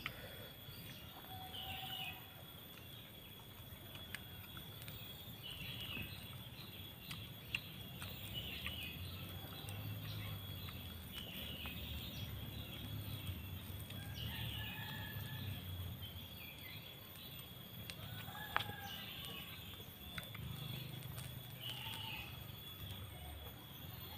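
Birds calling in short chirps every second or two over a faint low rumble, with a couple of sharp clicks.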